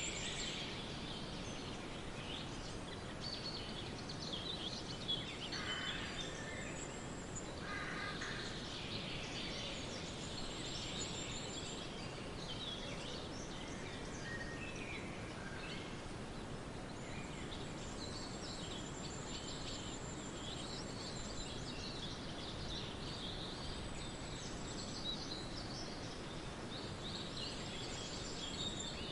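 Birds singing and chirping over a steady background hiss, with a high trill that comes and goes.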